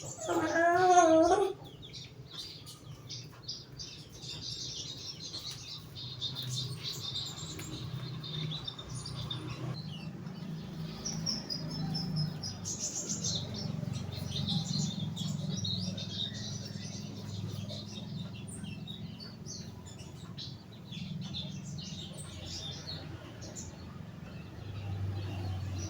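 Young sogon bird in a cage chirping, with many short, high calls repeated throughout. A louder wavering call sounds in the first second and a half, over a steady low background hum.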